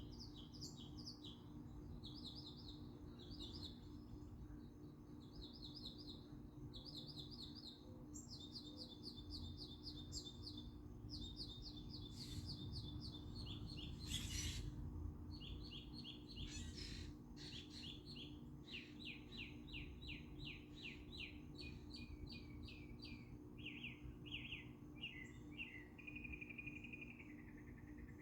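A songbird singing in quick runs of rapidly repeated high notes, each phrase a little different, with two brief rushing noises about halfway. Near the end a cricket's steady high trill takes over.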